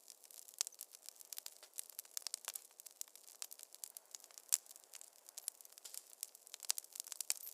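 Wood fire crackling in a fireplace: many irregular sharp pops and snaps over a faint hiss, one louder pop about four and a half seconds in.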